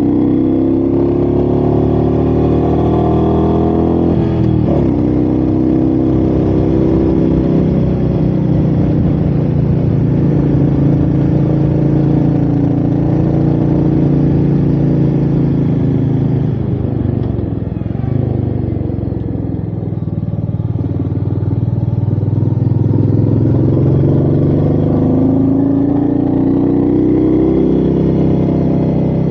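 Royal Enfield Meteor 350's single-cylinder engine under way, its pitch climbing as it accelerates, with a brief break about four seconds in like a gear change. About two-thirds of the way through the pitch drops and the engine eases off, then it climbs again near the end.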